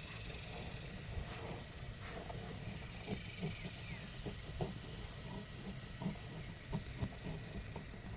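Pigs making short, irregular grunting and snuffling sounds, more frequent from about three seconds in, over a steady low rumble.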